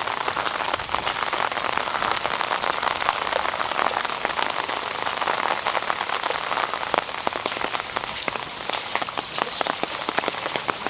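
Heavy rain falling steadily: a dense wash of noise full of sharp, close drop hits.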